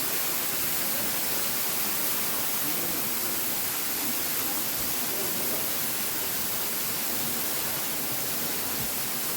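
Waterfall rushing, a steady unbroken wash of falling water.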